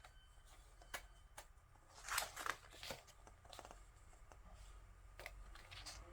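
Pages of an album photo book being handled and turned: a few light clicks, a short burst of paper rustling about two seconds in, then more soft taps and rustles.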